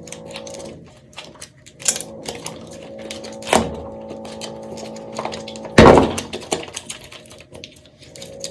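Soap cracking and crumbling as it is cut or crushed: a run of small crisp crackles, with louder breaking cracks about two, three and a half and six seconds in, the last the loudest. Soft background music hums underneath.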